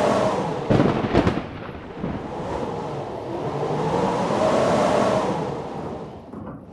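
Strong blizzard wind gusting, swelling and dying away twice with a rising-and-falling howl. A quick cluster of sharp cracks comes about a second in.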